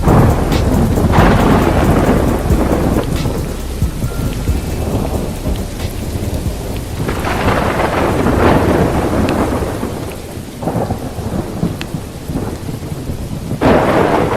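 Thunderstorm: steady rain with rolling thunder, the rumbles swelling and fading in waves, a big one near the start, another a little past halfway and a last one rising near the end.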